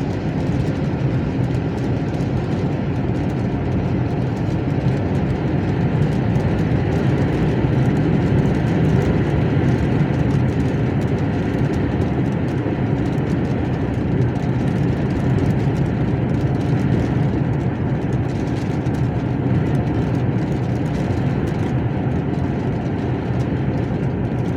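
Steady engine and road noise inside the cab of a moving truck, an even low rumble that holds level throughout.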